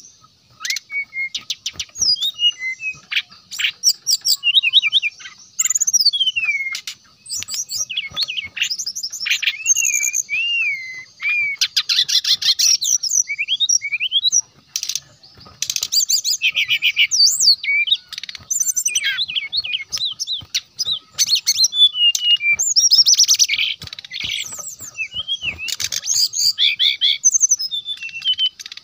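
Brown-chested jungle flycatcher singing vigorously and almost without pause: quick varied phrases of slurred whistles, rising and falling glides and rapid trills, broken by short gaps.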